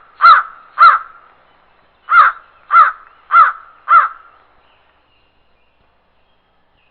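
A bird giving short, harsh, caw-like calls: two in the first second, then after a pause four more in an even series about 0.6 s apart.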